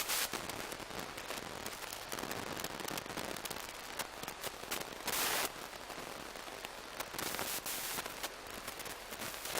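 Narrow-gauge steam locomotive standing in a station, with a steady crackling hiss and scattered sharp clicks. A short burst of louder steam hiss comes about halfway through and another, longer one a couple of seconds later.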